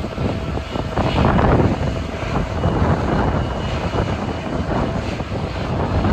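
Jet airliner engine noise, a steady rush with a faint whine, with wind buffeting the microphone.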